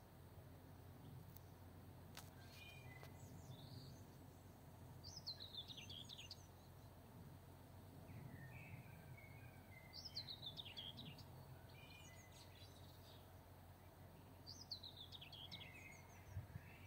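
Faint songbird song: the same short phrase, falling steeply in pitch, sung three times about five seconds apart, with softer chirps between, over a steady low hum.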